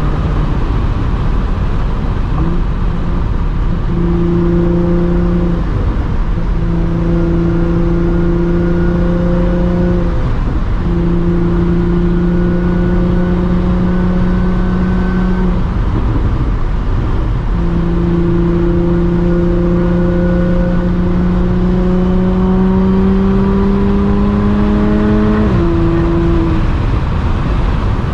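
Audi S4 B8.5's supercharged 3.0-litre V6 through an AWE exhaust on test pipes, driving at highway speed: a steady engine drone over road and wind noise. The drone breaks off briefly several times, then climbs slowly in pitch for several seconds before dropping suddenly near the end.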